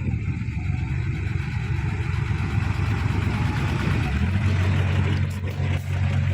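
Heavy diesel engine running with a steady low drone, its note growing stronger about four seconds in.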